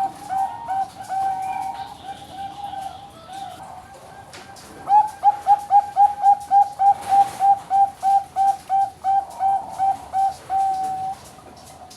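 Zebra dove of the Bangkok perkutut strain singing: a quick series of short coos, about four to five a second. A louder run starts about five seconds in and ends in a longer drawn-out note near the end.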